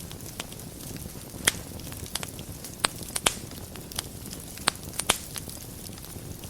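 Wood fire burning in a fireplace: a steady low rumble of flames with sharp, irregular crackles and pops, a few of them louder than the rest.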